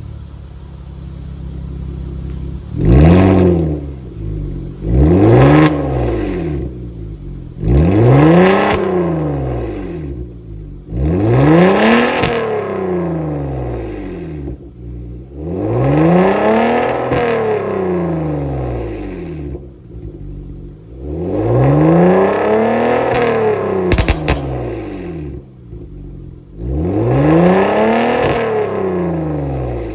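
Kia K7 3.0 GDI V6 exhaust through a custom variable exhaust system, revved seven times in a row while stationary. Each rev climbs and falls back to idle, and the later revs are held longer. There is one sharp crack about two-thirds of the way through.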